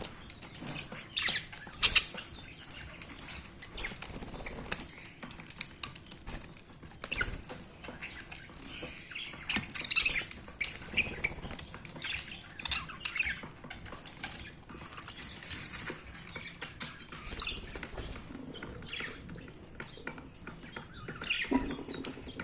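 Budgerigars bathing: repeated bursts of wing-flapping and splashing, with scattered short high chirps.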